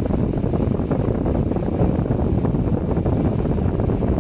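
Wind buffeting a phone microphone: a steady, loud, low rumbling noise that flutters unevenly in strength.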